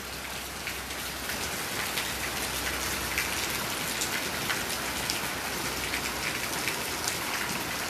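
Steady heavy rain pouring down and pattering on surfaces, with many individual drops splashing.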